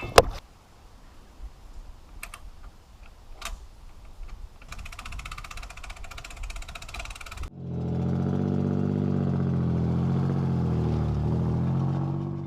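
Two-stroke 50 hp Johnson outboard motor running steadily at idle, cutting in suddenly about halfway through and fading near the end. Before it, only faint rustling and a few light clicks.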